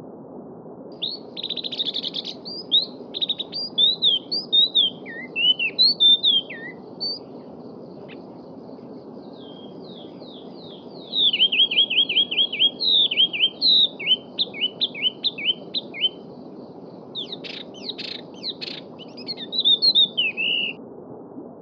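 Songbirds singing in phrases of quick, sweeping chirps and rapidly repeated notes, with pauses between phrases, over the steady rush of a flowing stream.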